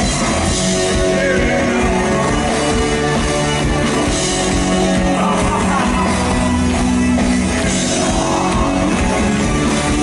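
A rock band playing live, loud and steady.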